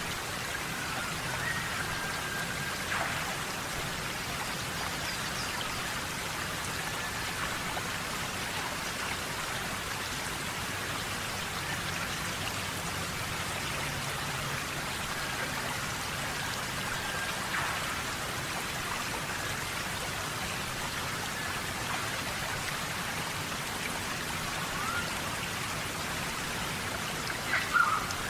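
Steady heavy rain falling in a tropical rainforest, with a few louder single drops striking close by. Short faint whistled glides come through here and there, clearest near the end.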